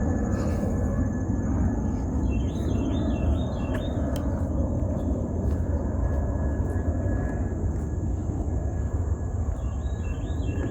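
Steady low outdoor rumble of background noise, with a bird giving short warbling calls twice, about two seconds in and again near the end, over a thin, steady high-pitched whine.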